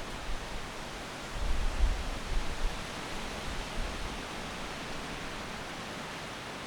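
Wind in trees, a steady hiss of rustling leaves. About a second in, a gust buffets the microphone with low rumbling thumps for a second or so, then eases back to the steady hiss.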